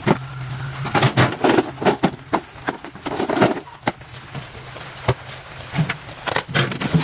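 Irregular sharp metallic clinks and knocks of tools and water-pump parts being handled during repair work, over a steady low hum that stops about a second in.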